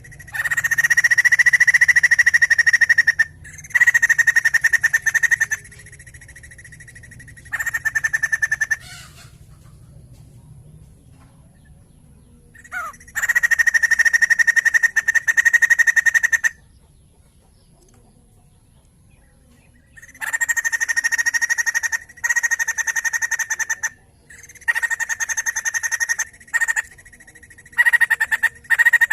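White-crested laughingthrush calling in loud bursts of rapid chattering. Each burst lasts one to three seconds, with short pauses between.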